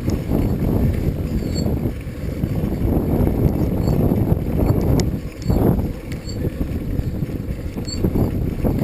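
Wind buffeting the microphone of a camera on a moving bicycle: a rough low rumble that rises and falls, dipping briefly about halfway through.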